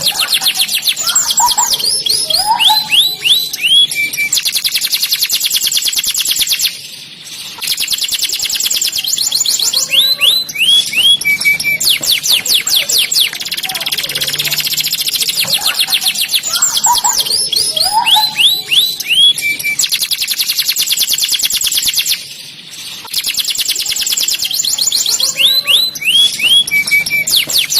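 Domestic canary singing: a continuous song of very fast rolling trills and falling whistled notes, broken by short pauses about seven seconds in and again near the end. The same song phrase repeats about every fifteen seconds.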